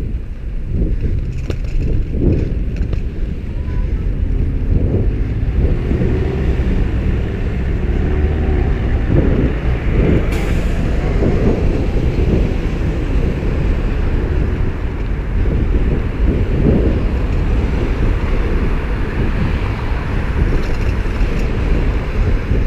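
Wind buffeting the microphone of a moving bicycle, over the steady noise of road traffic going by. A brief sharp hiss sounds about ten seconds in.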